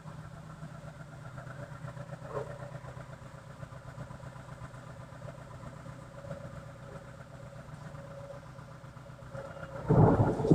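A steady low hum like an idling engine, then a loud rumble that starts suddenly near the end.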